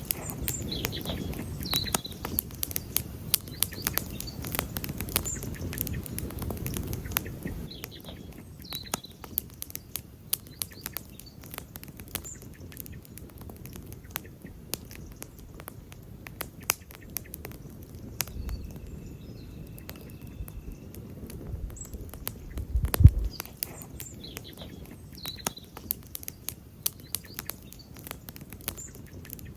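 Wood campfire crackling with many sharp snaps and pops. Small birds chirp briefly every few seconds. There is a low rumble in the first few seconds and a heavy low thump about 23 seconds in.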